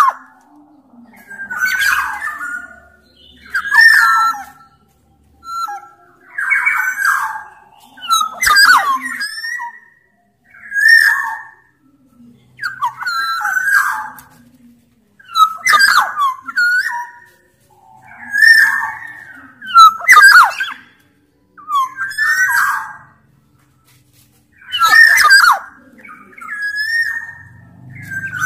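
Black-naped oriole (kepodang) singing loudly: short fluty whistled phrases mixed with sharper notes, repeated about every two seconds with brief pauses between.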